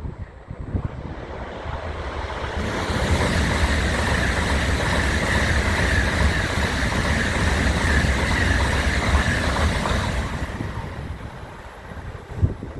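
Tokaido Shinkansen train passing through the station at speed without stopping: a rushing, rumbling noise that builds within about two seconds, holds loud for about seven seconds, then dies away.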